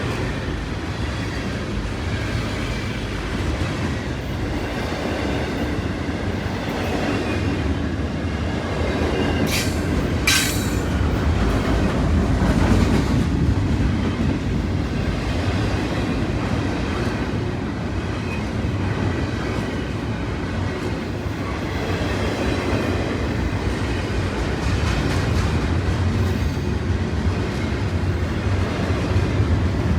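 Train rolling along the track, a steady rumble of wheels on rail, with two short sharp high-pitched sounds a little after ten seconds in.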